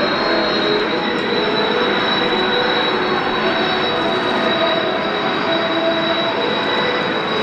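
Jet aircraft engines running steadily: a broad rush with a high, constant whine over it.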